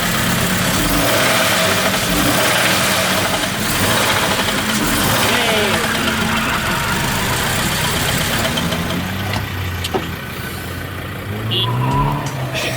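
A car engine running, with voices in the background.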